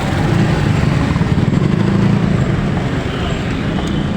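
Vehicle running along a road: steady engine and road noise, swelling slightly in the middle.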